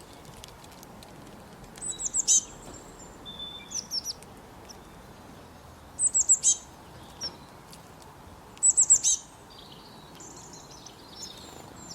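Small songbird calling in four bursts of quick, high, falling chirps, a few seconds apart, with fainter calls in between.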